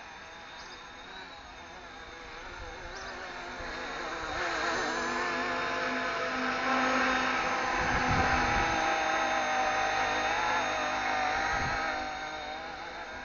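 RC ERA C189 MD500 scale RC helicopter in flight, its electric motor and rotors giving a steady whine. The whine grows louder from about four seconds in, stays loud for several seconds, then fades near the end.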